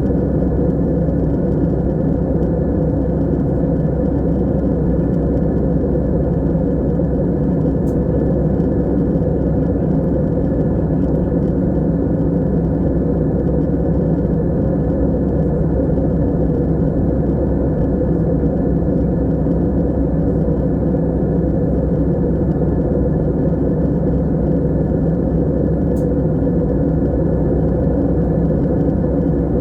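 Steady low drone of an airplane in flight, heard from inside the cabin: constant engine and airflow noise that does not change.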